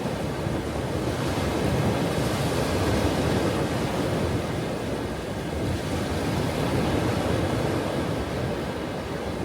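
Ocean surf: waves breaking and washing in as a steady rush that swells gently twice.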